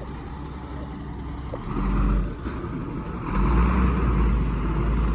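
Truck engine running with a deep rumble. It revs up briefly about two seconds in, then runs louder and steady from a little past three seconds.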